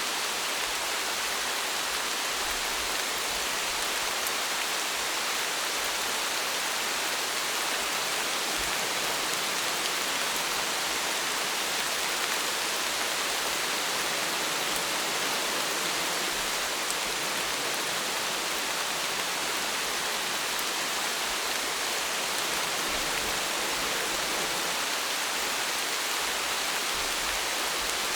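Steady rain falling, an even hiss of drops with no distinct individual impacts or thunder.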